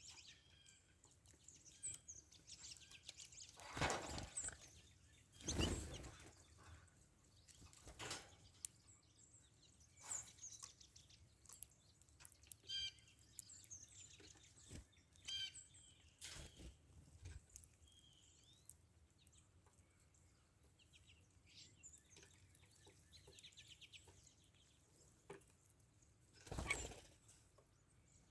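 Wild birds giving short, high chirps now and then, with a few brief whooshes, the loudest about four, six and twenty-seven seconds in.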